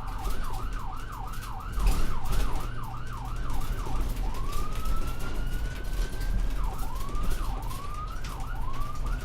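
Electronic siren cycling through its tones: a fast yelp of about three sweeps a second, then one slow rising wail about four seconds in, then a few slower yelps near the end, over a steady low hum.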